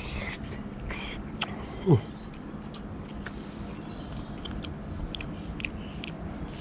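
A man blowing on a hot forkful of rice-and-fish paella, then chewing it with small wet mouth clicks and smacks. A brief falling hum comes from him about two seconds in, the loudest moment.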